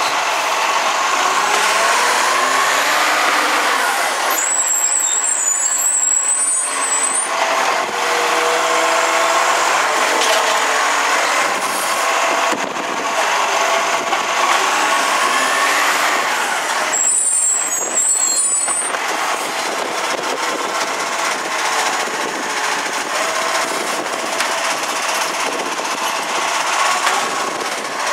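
Side-loader garbage truck with a MacDonald Johnston Gen V body at work: engine and hydraulics running with whines that rise and fall. Two short air hisses come about twelve seconds apart.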